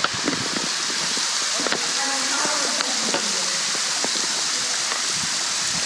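Hemmed-In Falls, a tall waterfall running low on water, spattering down onto the rocks and pool below with a steady rain-like hiss, and scattered faint clicks and knocks.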